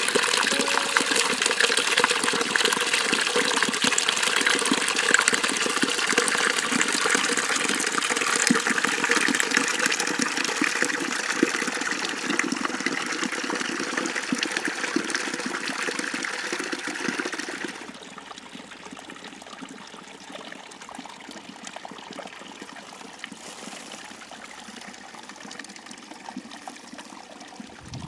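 Water rushing along an irrigation ditch, a steady splashing rush; about two-thirds of the way through it suddenly drops to a quieter flow.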